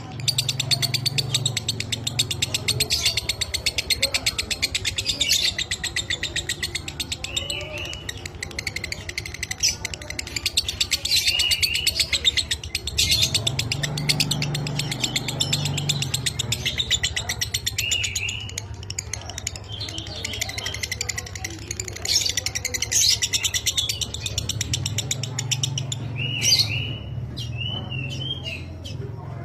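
Lovebird chattering in one long, very rapid trill (the 'ngekek' song), with short squeaky calls that rise and fall every few seconds.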